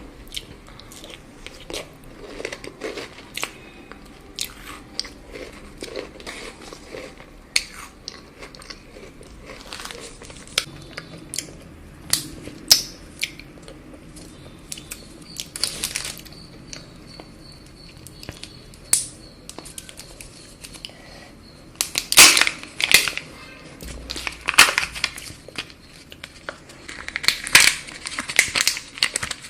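Chocolate being bitten and chewed close to the microphone: a run of sharp crunches and crackles, with louder clustered crunching near the end, and some crinkling of a wrapper.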